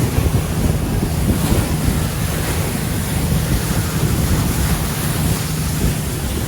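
Wind buffeting the microphone on a moving passenger boat, with the boat's engine droning steadily underneath and water rushing past the hull.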